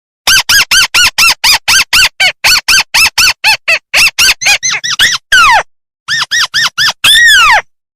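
Recorded call of a crake (burung tikusan): a fast series of short arched notes, about five a second, that speed up and grow shorter, then a long falling note. After a brief pause come a few more notes and a second long falling note.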